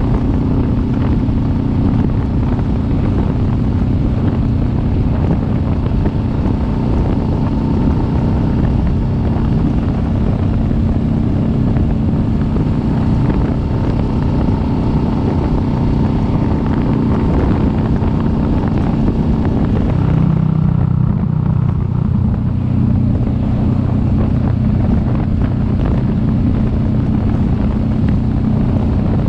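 Kawasaki Vulcan S 650's parallel-twin engine running steadily while riding, with wind rushing over the microphone. About twenty seconds in the engine note drops lower and the wind eases.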